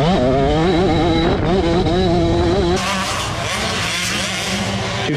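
Motocross bike engines revving hard: the pitch sweeps up sharply at the start, wavers while held high, and about three seconds in a harsher, noisier engine sound takes over.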